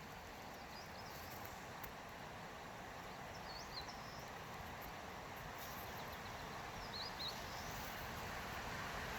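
Forest ambience: a steady hiss of background noise, slowly growing louder, with three brief, high twittering bird calls, one about a second in, one in the middle and one near the end.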